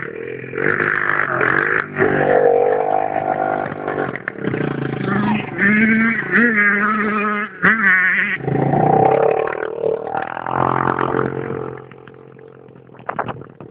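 Small dirt-bike engine revving up and down, its pitch rising and falling repeatedly, then quieter near the end.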